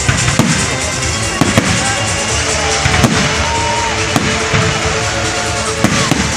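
Fireworks display: loud shell bursts, a sharp bang roughly every second, over music playing.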